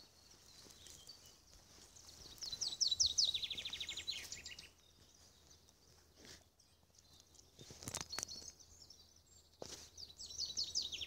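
A songbird singing a phrase of quick falling notes that runs into a fast trill, about two seconds in and again near the end. Two short knocks come in between.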